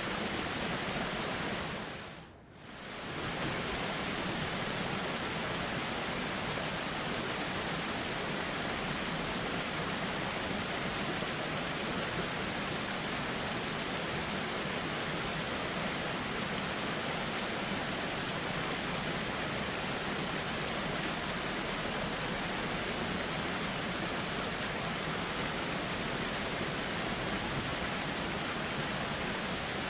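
Steady rushing of flowing river water, an even hiss. About two seconds in it fades down briefly and swells back up.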